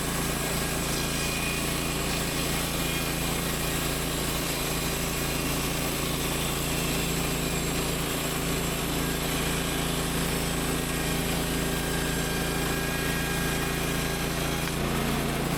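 Small gas engine of a Woodland Mills 130 MAX portable bandsaw mill running steadily at speed as the blade cuts through a log.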